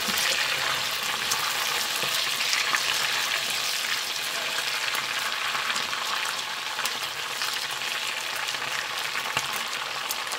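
Smoked pork rib pieces frying in hot oil in a pan, a steady sizzle, with a few light clicks of a spatula against the pan.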